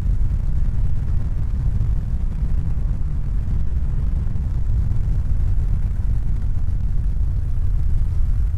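A steady, deep rumble at an even level, with no change in pitch and no separate events.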